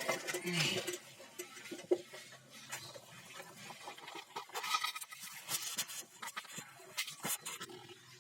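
Caged lovebirds rustling and scratching, with scattered short clicks and brief harsh chirps, the loudest a little before the middle and about two-thirds through.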